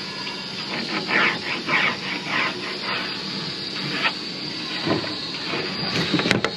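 Hand saw cutting a wooden floor board: a run of short rasping strokes, about two a second, over a steady hiss.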